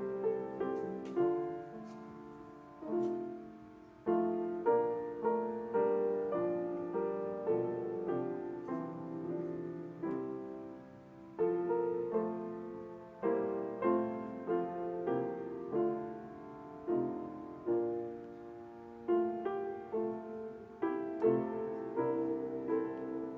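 Solo piano playing a slow, quiet piece in chords, each chord struck and left to fade before the next.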